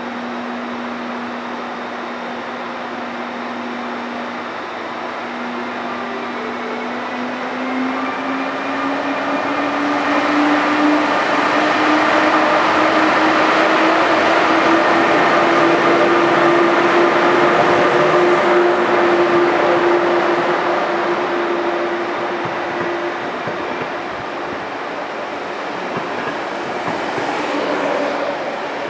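A train moving through the station, with a whine that rises slowly in pitch as it gathers speed. It grows louder for several seconds in the middle, then fades.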